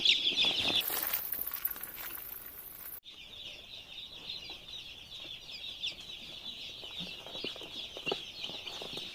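A dense chorus of many day-old broiler chicks peeping continuously. The sound breaks off for an instant about three seconds in, then carries on a little softer.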